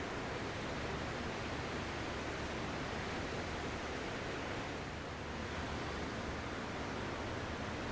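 Ocean surf: a steady, even wash of waves with no separate breakers standing out.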